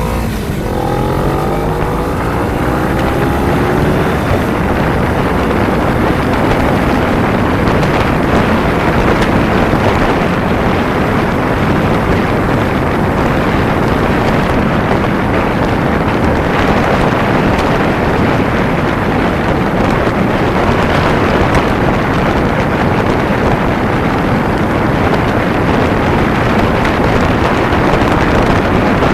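Kawasaki Ninja 250 motorcycle under way: its engine note rises for the first few seconds as it speeds up. Then steady wind rush over the camera's microphone at riding speed drowns out the engine.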